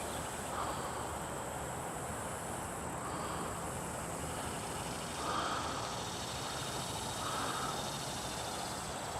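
Steady outdoor background noise by a pond, with two faint short sounds about five and seven seconds in.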